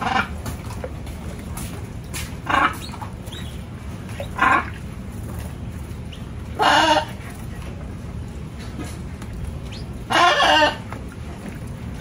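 Five short bird calls spaced a couple of seconds apart, the last two longer and louder, over a steady low rumble.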